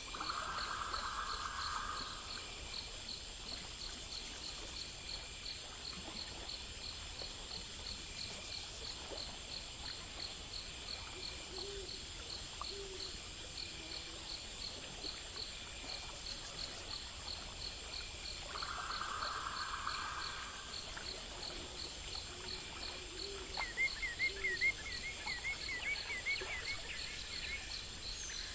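Night-time nature ambience: a steady chorus of insects with a cricket-like chirp repeating about twice a second. Two short buzzy trills come near the start and again about two-thirds of the way in, a few short low calls sound in the middle, and a quick run of chirps comes near the end.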